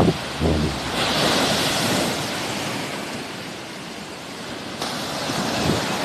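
Sea waves washing on the shore: a wave surges about a second in and drains away, and another builds near the end. Wind buffets the microphone with low thumps at the start.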